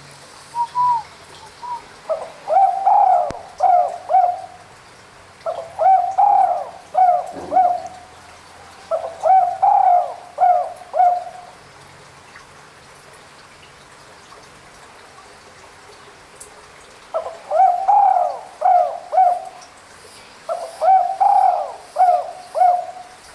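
A spotted dove (tekukur) cooing in repeated phrases of three or four low coos each. There are three phrases, a pause of about five seconds, then two more.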